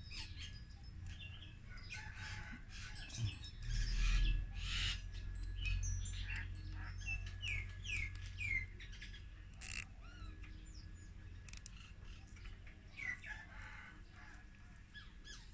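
Small birds chirping, a run of short downward-sweeping calls near the middle, over the scattered clicks and rustles of hands working a plastic cable tie around a pump and wooden stake. A low bump of handling noise stands out about four seconds in.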